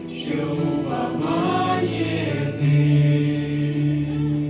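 Church choir singing the closing phrase of a Russian-language worship song with accompaniment. It settles about two and a half seconds in onto a long held final chord.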